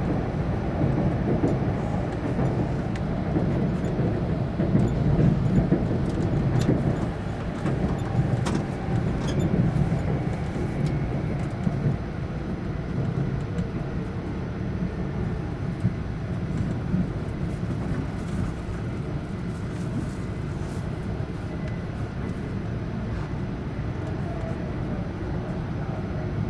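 Running noise inside an E4 series Shinkansen car: a steady low rumble that eases off gradually as the train slows into its terminal station, with a few faint clicks partway through.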